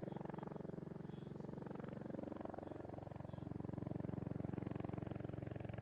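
Tiltrotor aircraft's proprotors and engines running, a steady rapid chop of the rotor blades over a low engine drone, the pitch shifting slightly midway.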